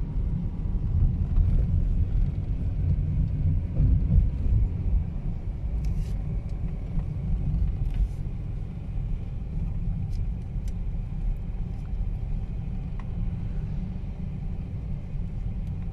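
Low, steady rumble of a vehicle in motion, heard from on board, with a few faint clicks.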